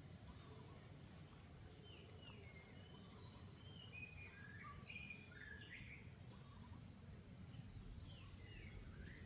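Faint high chirping calls, a few short sliding notes in a cluster in the middle and again near the end, over a steady low background hum.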